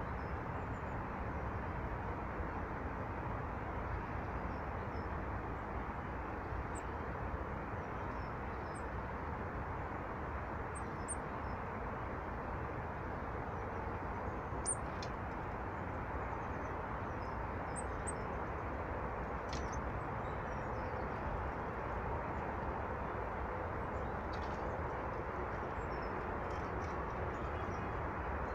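Small birds giving scattered short, high chirps over a steady rushing background noise.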